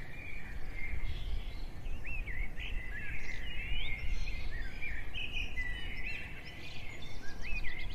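Birds chirping, with short whistled calls that slide up and down and a fast trill near the end, over a low steady rumble.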